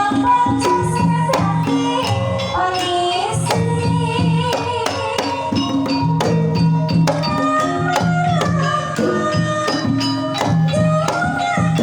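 Banyumasan tayub gending played on Javanese gamelan: sustained metallophone notes, with frequent drum and percussion strikes under a female sinden's singing.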